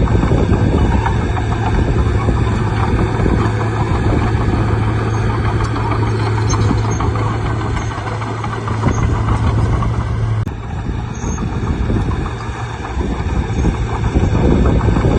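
Bulldozer's diesel engine running steadily with a strong low hum, over dense clatter and grinding from the machine at work. The low engine note shifts about ten seconds in.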